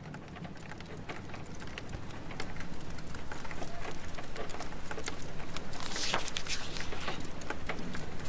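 Rain-and-fireplace ambience: steady rain with a wood fire crackling and popping in irregular sharp snaps. It fades in over the first couple of seconds.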